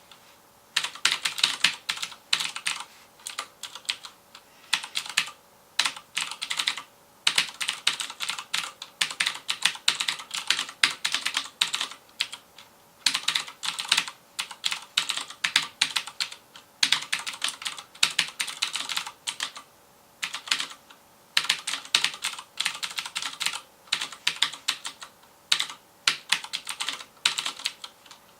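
Fast typing on a FILCO Majestouch Convertible 2 mechanical keyboard with Cherry MX Blue switches: rapid runs of sharp, clicky keystrokes broken by short pauses every second or two.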